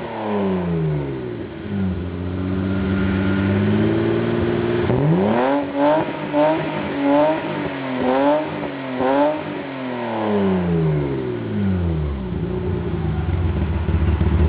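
BMW E30 325i's 2.5-litre M20 straight-six, heard from behind through dual Cherry Bomb glasspack mufflers, being revved. The revs fall away from a peak, are held for a couple of seconds, then are blipped quickly several times before sinking back to a steady idle near the end.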